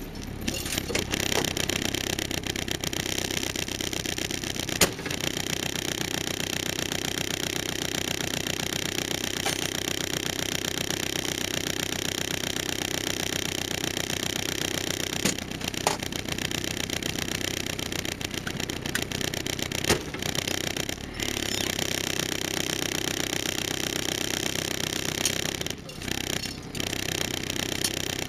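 Land Rover Series III engine running steadily at low speed over a rough track, with a few sharp knocks from the vehicle jolting over bumps.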